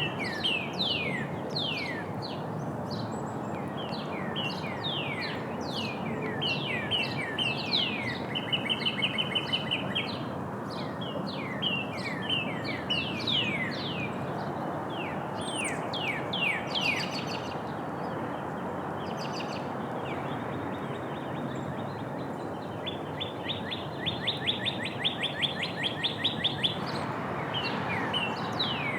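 Small songbirds chirping at a bird feeder: many short, downward-sliding chirps, with a rapid trill twice, the second lasting a few seconds near the end. A steady background rush lies underneath.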